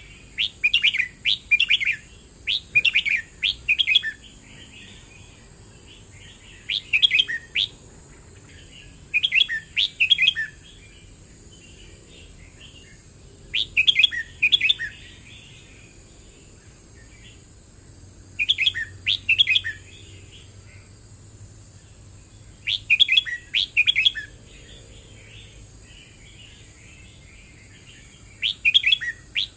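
Red-whiskered bulbul singing: bouts of quick, bright, warbled phrases about a second long, repeated every four to five seconds, with softer twittering between some of them. The first bout is the longest, a run of several phrases.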